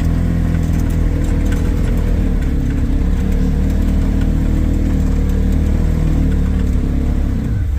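Vehicle engine running steadily at a constant speed, then easing off with its note dropping near the end.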